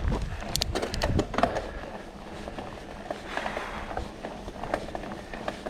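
Mountain bike clicking and knocking while being ridden up a rock slab under climbing effort, a noise that sounds wrong to the rider and suggests a problem with the bike.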